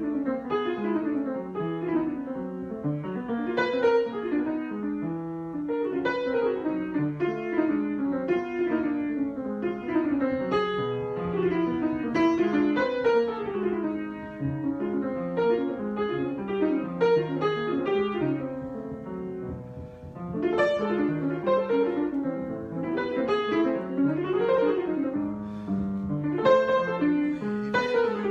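Improvised piano music, a continuous flow of notes with a brief softer moment about twenty seconds in.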